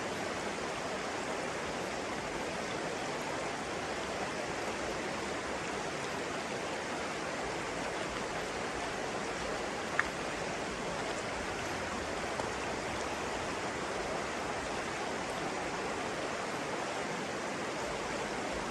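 Steady rushing of flowing water, as of a stream. One brief sharp chirp or click cuts through about halfway.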